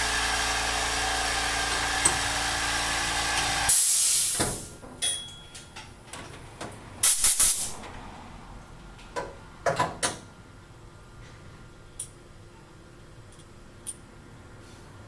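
Tormach PCNC 440 milling machine running with a steady sound of several held tones, cut off about four seconds in by a short, loud hiss. After that it is much quieter, with a scattering of clicks and knocks, the loudest a cluster a few seconds later and another about ten seconds in.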